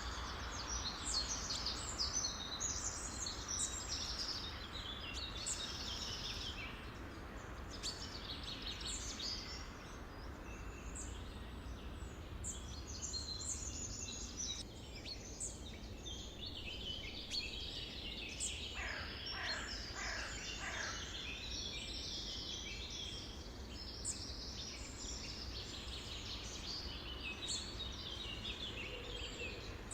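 Several wild birds singing and chirping at once in a dense, overlapping chorus, over a steady low background rumble. About two-thirds of the way through, a run of falling whistled calls stands out.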